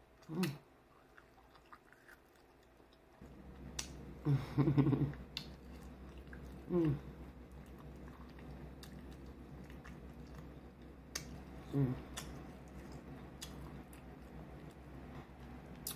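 A person biting and chewing food held in the hands, with small wet mouth clicks and a few short hummed sounds.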